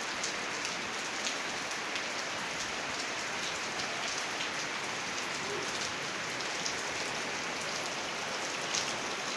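Steady rain falling, a constant hiss with scattered drop patter.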